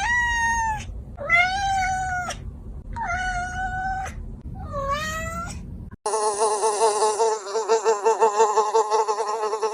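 Four drawn-out, high-pitched animal calls, each about a second long. About six seconds in the sound cuts to a steady, fast-pulsing buzzing drone.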